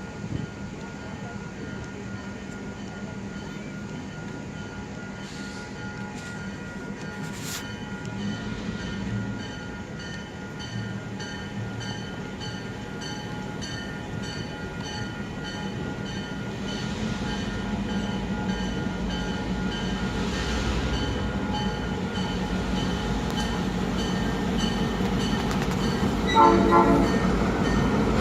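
A CN freight train led by EMD GP9 and GP38-2 diesel locomotives approaching, the engines' steady drone growing louder. A bell rings at an even pace through the middle, and the locomotive horn sounds one short blast near the end.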